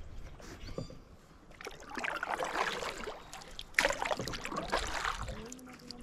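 Canoe paddle strokes in the water: two splashing pulls about two seconds apart, the second starting sharply.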